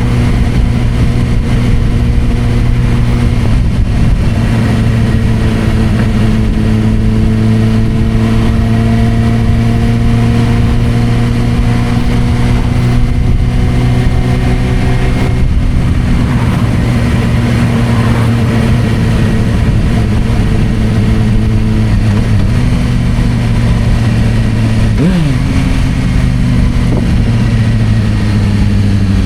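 Suzuki GSR600's inline-four engine through a Dominator aftermarket exhaust, running at steady, moderate revs with the note drifting slowly up and down. There is a brief sharp dip and recovery in pitch a few seconds before the end.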